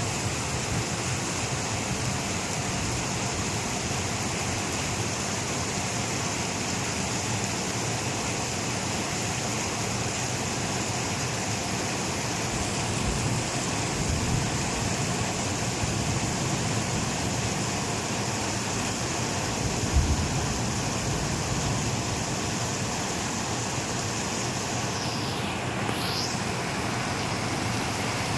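Steady, heavy rain falling, an even rushing hiss. A single low thud about two-thirds of the way through, and near the end a brief whoosh that sweeps down and back up.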